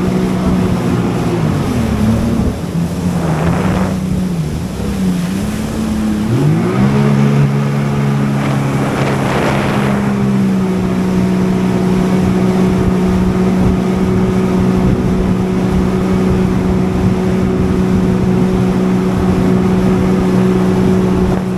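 Jet ski engine running. Its pitch wavers and dips in the first few seconds, rises about seven seconds in as it speeds up, then holds steady for the rest. Two brief rushes of noise come around three and nine seconds in.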